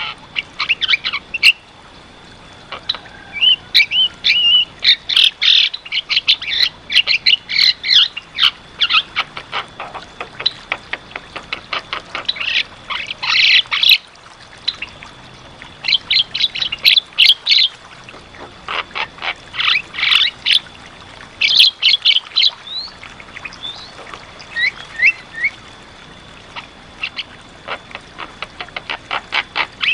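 Javan myna singing vigorously: bursts of fast chattering, whistled and squawking notes with short pauses between them.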